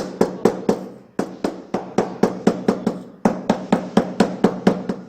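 Rapid knocking strikes on tile, about four to five a second, in three runs separated by brief pauses, with a steady low hum beneath: tile being tapped down into its mortar bed.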